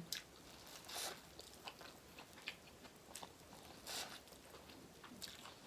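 Close-up mouth sounds of someone chewing and biting seafood-boil food, with scattered soft crunches and wet clicks at irregular intervals. Louder crackles come about a second in and again about four seconds in.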